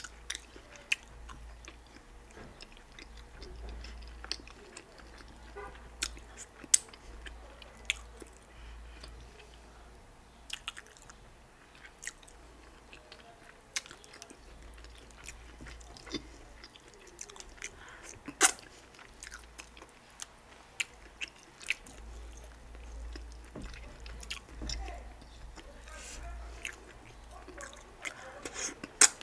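Close-miked chewing of okra pepper soup and garri, with many short, sharp mouth clicks and smacks scattered through it.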